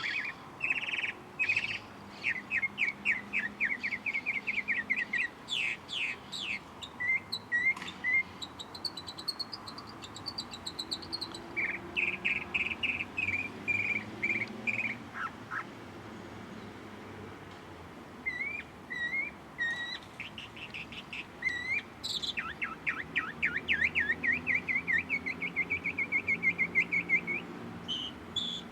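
Songbirds singing: phrases of rapid repeated chirps and trills, broken by short pauses, with a second, higher series of notes overlapping at times.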